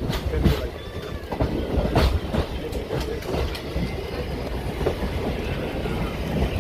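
Passenger train running along the line: the wheels click irregularly over rail joints above the steady rumble of the moving coach.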